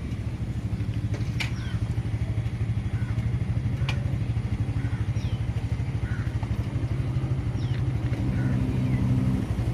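Small motorcycle engine idling steadily with a fast, even pulse.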